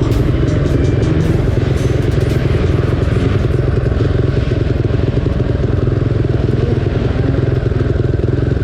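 Dirt bike engine running at a steady pitch, loud and close to the microphone.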